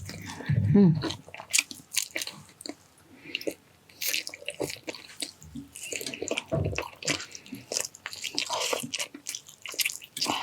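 Close-miked eating: chewing and biting with many irregular wet smacking and clicking mouth sounds, as pig's cheek caldereta is eaten. A brief vocal sound comes under a second in.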